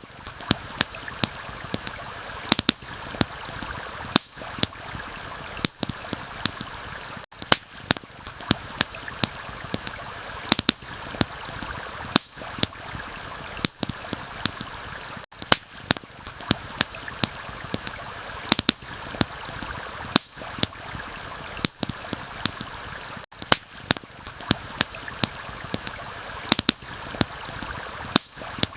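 Campfire crackling with frequent sharp pops, over a steady rush of flowing water.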